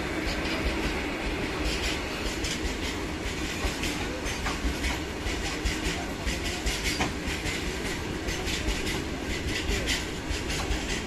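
Long freight train of open-top wagons rolling past. A steady rumble with a continuous stream of wheel clicks and clatter on the rails.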